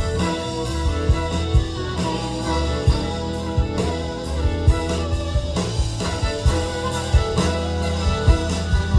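Live band playing an instrumental passage with no vocals: sustained guitar chords over a drum kit keeping a steady beat.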